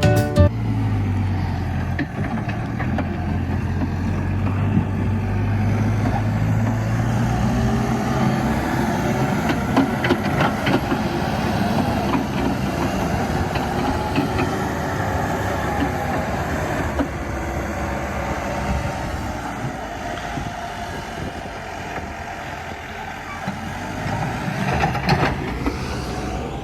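Excavator at work: its diesel engine running steadily, with a wavering whine and a few sharp metallic clanks.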